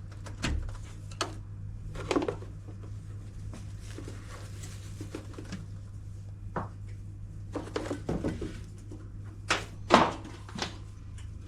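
Scattered clicks and knocks of hands working on a washing machine's plastic panels and wiring connectors, the loudest knock about ten seconds in, over a steady low hum.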